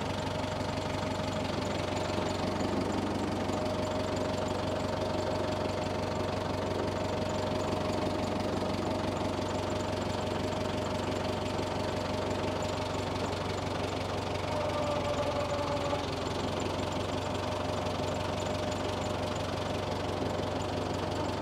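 Tiger tractor's engine running steadily at idle, with a steady high whine over the low engine hum.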